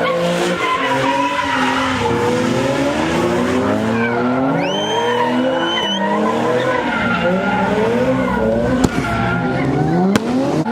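Car engine revving up and down over and over while its tyres skid, as in donuts or drifting. A high tyre squeal rises about four and a half seconds in and holds for over a second. Two short sharp cracks come near the end.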